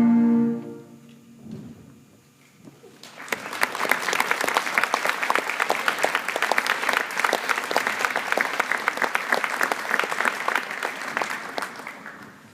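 A school wind band's final held chord cuts off about half a second in, leaving a short hush. Audience applause starts about three seconds in and fades away near the end.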